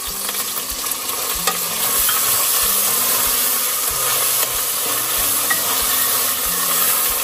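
Chopped tomato sizzling in hot oil with fried onions and ginger-garlic paste in a pressure cooker while it is stirred. The steady sizzle grows louder about two seconds in.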